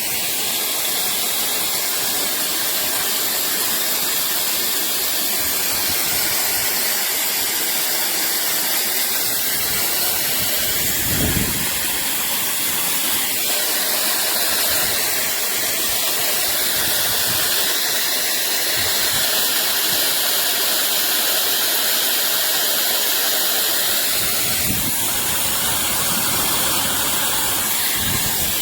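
Hair dryer blowing steadily: an even, unbroken hiss of rushing air.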